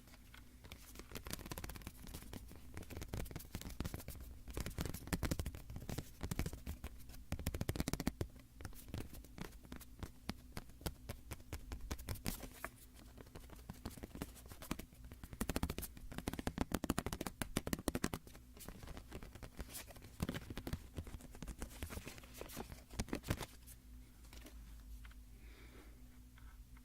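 A small photo card being tapped and scratched close to the microphone: quick irregular clicks and short scratching strokes, denser in a few bursts.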